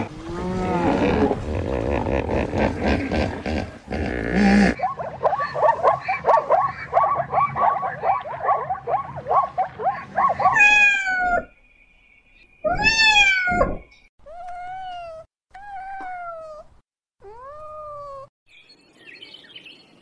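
A string of different animal calls. It opens with a rough, low, rumbling sound for the first few seconds. Then comes a fast, even run of short repeated calls. After that, about halfway through, there are five or six separate calls that each slide down in pitch, with short silences between them.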